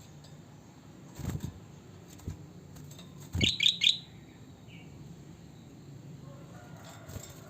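Kutilang (sooty-headed bulbul) giving a quick run of three or four rising chirps about halfway through, with soft low thumps from the bird's movements, one a little earlier.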